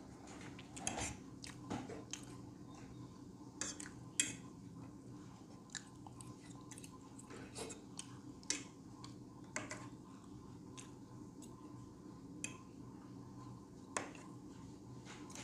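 A person chewing a mouthful of pancake close to a clip-on microphone, with scattered short clicks as a steel fork cuts against the plate.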